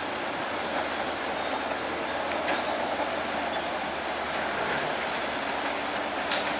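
Heavy diesel earthmoving machinery running steadily under load, with a low engine hum and a couple of sharp metallic clanks. A higher steady tone joins about five seconds in.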